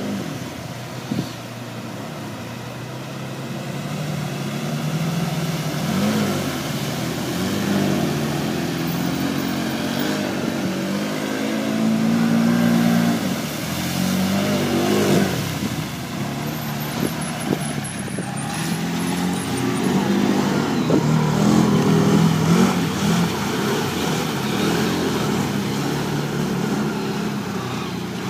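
A vehicle's engine revving, its pitch climbing and dropping again and again.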